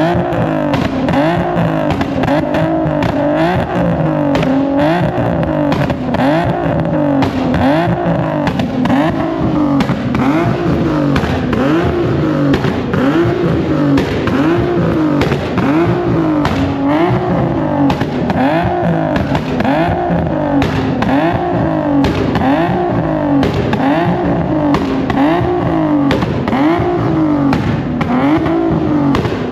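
A car engine revved up and down over and over, its pitch rising and falling in an even rhythm about once every second and a half.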